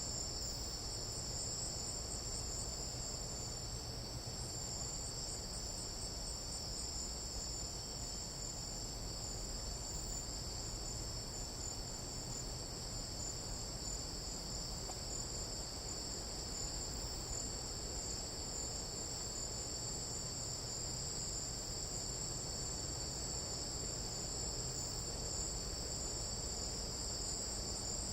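Steady chorus of night insects in tropical jungle, cricket-like, a continuous high-pitched trill at two pitches with no break, over a low background rumble.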